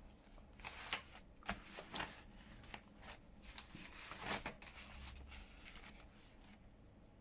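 Paper and card pages being handled: soft rustles and light taps scattered through, dying down near the end.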